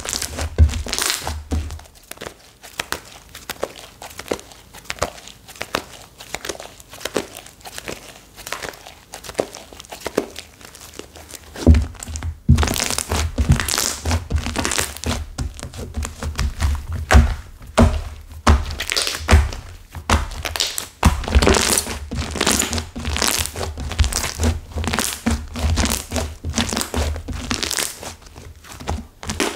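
Clay slime whose clay has set hard and crisp, crackling and crunching as it is squeezed and pressed by hand, with soft thuds. The crackling comes in dense runs, thickest about twelve seconds in and again from about twenty-one seconds.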